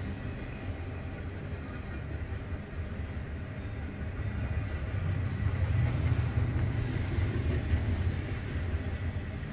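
Norfolk Southern intermodal freight train's double-stack container cars rolling past: a steady low rumble of wheels on rail that grows louder about halfway through.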